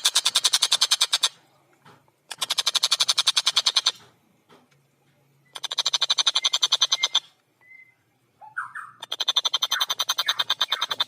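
Tengkek buto kingfisher giving its rapid cackling 'kek-kek-kek' call, about ten harsh notes a second, in four bouts of roughly one and a half to two seconds separated by short pauses. A couple of short, lower single notes come just before the last bout.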